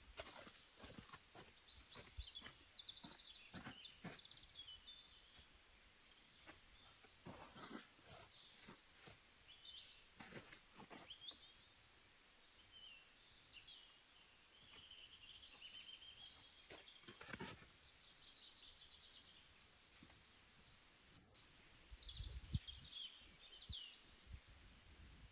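Faint chirping of small birds, scattered through the quiet, with occasional short clicks and crunches.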